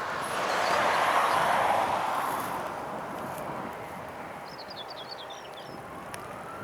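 Jet airliner engine noise swelling to a peak in the first two seconds, then slowly fading as the aircraft passes. A small bird chirps in a quick run of high notes about halfway through.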